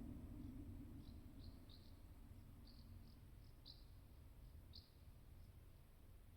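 Near silence with faint, short, high bird chirps at irregular intervals, about ten in all. A low rumble fades out in the first second or two.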